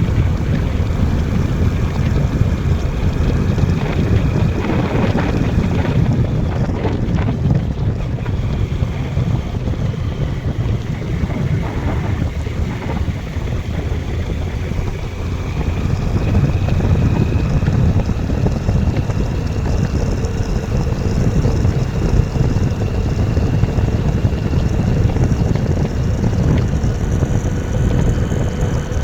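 Heavy wind buffeting on the microphone, a steady low rumble, with a faint engine tone underneath that slowly rises in pitch over the second half.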